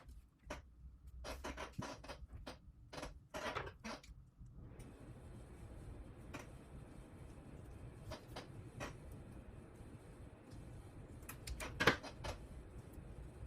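Light handling noises of hands working on wiring and small parts: a quick run of small clicks and rustles over the first few seconds, then a few scattered clicks, the loudest about twelve seconds in.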